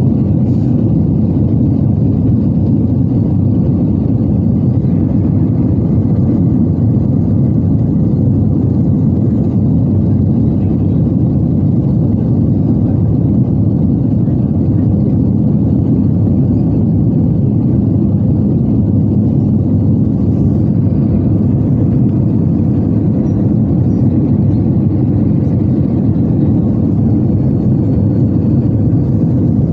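Steady low drone of an Airbus A320-214 airliner in flight, heard from inside the cabin: its CFM56-5B engines and the air rushing past the fuselage, even throughout with no change.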